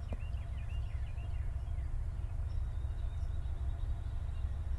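Low, steady rumble of a passing freight train. Over it, a bird gives short runs of chattering calls near the start and again near the end.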